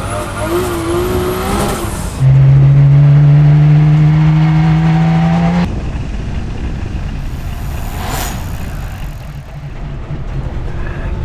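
Porsche 911 Cabriolet's flat-six engine revving and accelerating hard in pursuit. A loud, steady note climbs slowly for about three seconds and then cuts off suddenly, leaving quieter street and road noise.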